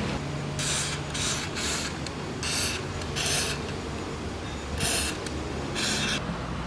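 Seven short scraping strokes at an uneven pace, over a steady low hum.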